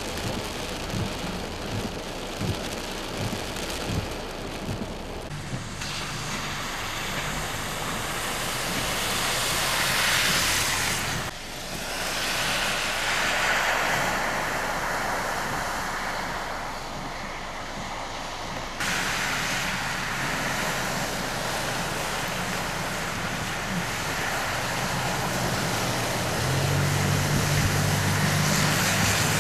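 Steady rushing noise of heavy rain and wind, with a low vehicle engine hum underneath. The sound changes abruptly several times.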